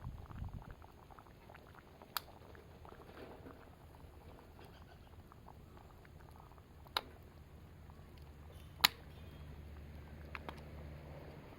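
Wood campfire crackling quietly with small ticks, broken by four sharp pops. The pop about nine seconds in is the loudest.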